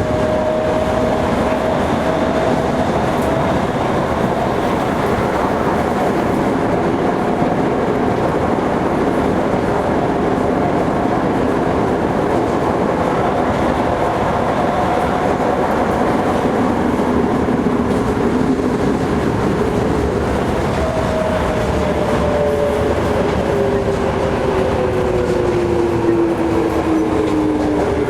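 Cabin running sound of a Toei 5300 series subway train in a tunnel: steady rumble of wheels on rail under a motor whine. About twenty seconds in, the whine starts falling steadily in pitch as the train brakes and slows.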